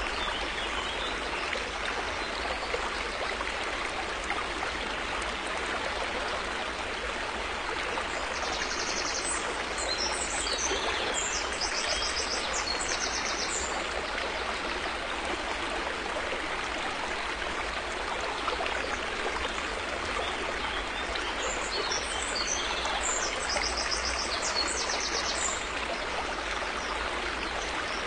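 River water flowing steadily. Twice, about 9 seconds in and again about 22 seconds in, a high repeated bird call rises above the water for a few seconds.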